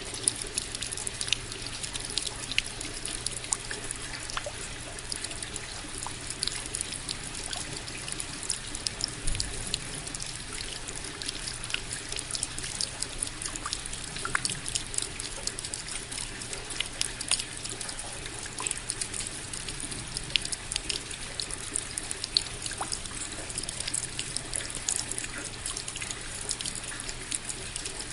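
Steady rain: an even wash of falling water with many close drops striking sharply at irregular moments, over a constant trickle.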